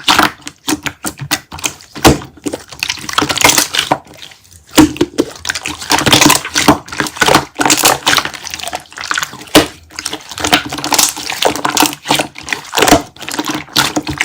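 Slime being squeezed and pressed by hand, giving a dense run of irregular wet clicks and crackling pops.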